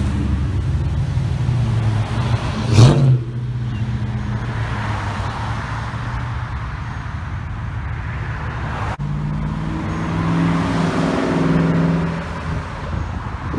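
Car engines running and accelerating as cars pull out one after another, with a sharp, loud burst about three seconds in.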